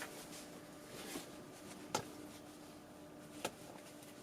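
Quiet room tone with a faint steady hum, broken by two small clicks, one about two seconds in and another about a second and a half later.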